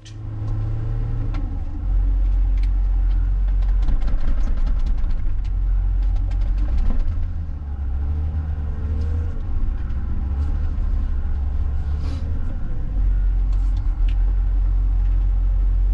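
John Deere 544K wheel loader's diesel engine running under varying load, stepping up in level about two seconds in. A wavering whine comes midway, and scattered knocks and clicks run over the engine.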